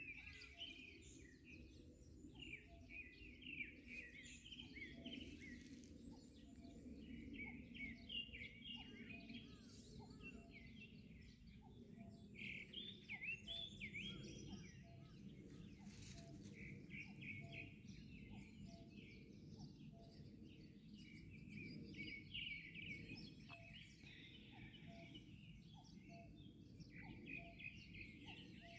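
Morning birdsong: several small birds chirping and trilling, faint, with a short low note repeating about once a second underneath.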